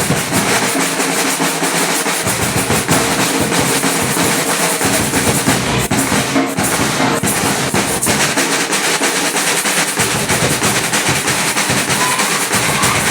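Samba batucada percussion ensemble (bateria) drumming: a dense, fast, steady rhythm of snare-type strokes, with the deep bass drums dropping out and coming back in.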